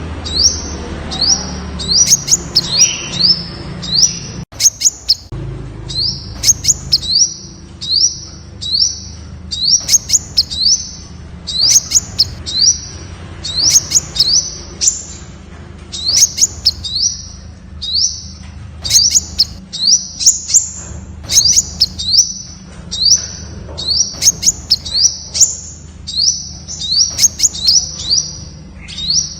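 Temminck's sunbird calling: a quick, unbroken series of short, high, upward-sweeping chips, several a second. A faint steady low hum runs underneath.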